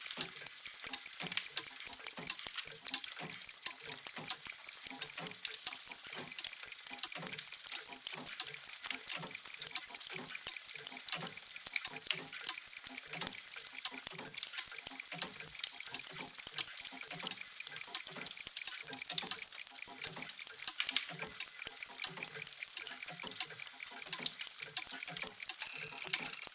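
Many mechanical clocks ticking at once. Their overlapping ticks form a dense, uneven stream of clicks, with lower-pitched tocks mixed in.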